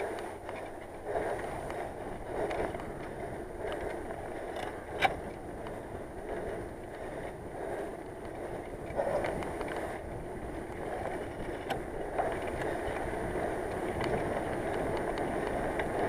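Bicycle ride: steady rushing wind and road noise, with one sharp click about five seconds in.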